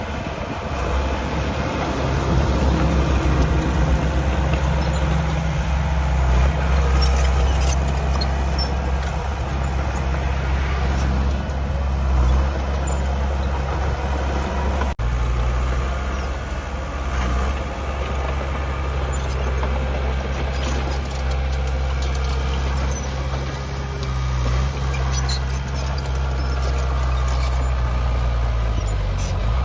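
Heavy diesel earthmoving machinery running, a steady deep engine drone, with a momentary dropout about halfway through.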